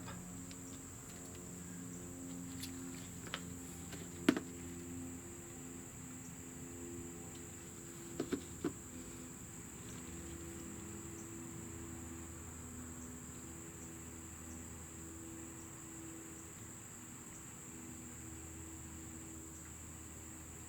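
A steady high-pitched whine or trill runs under the scene. A few light clicks and taps come about four seconds in and again around eight seconds, handling sounds from working on the brake parts.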